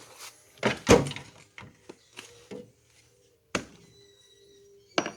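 Several sharp knocks and thuds from objects being handled, the loudest cluster about a second in and a single sharp knock a little past halfway.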